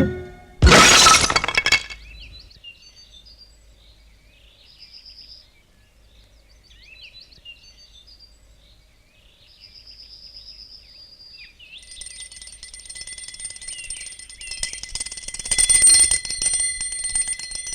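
Cartoon sound effects: a short loud crash-like burst, then faint high chirping, then a steady high-pitched bell-like ringing that starts about twelve seconds in.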